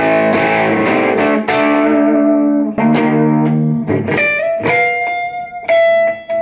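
Explorer-style electric guitar played through an amplifier: strummed chords ringing for about three seconds, then a few long single notes near the end. It is being played to test the neck pickup and volume control after cleaning, and it stays clean without cutting out.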